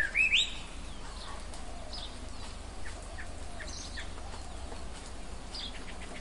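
Songbirds chirping: a bright run of quick repeated chirps in the first half-second, then fainter, scattered short calls over a steady faint outdoor hiss.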